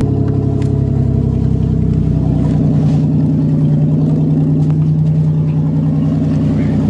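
1990 Buick Century's 3.3-litre (3300) V6 idling steadily just after a cold start in freezing weather, running on its own without the throttle touched.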